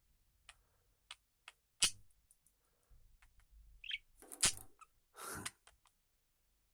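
Small birds moving about in a cage: scattered light clicks and taps, a short high chirp about four seconds in, then two louder rustling scrapes.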